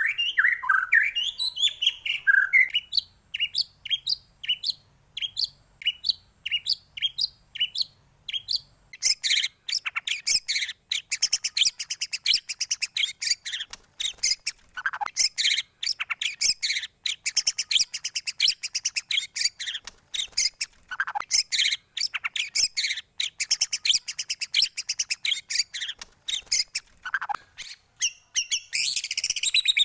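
White-rumped shama song: first a run of short, clipped notes about two a second, then from about nine seconds a dense, fast, high chattering, broken a few times by lower down-slurred whistles.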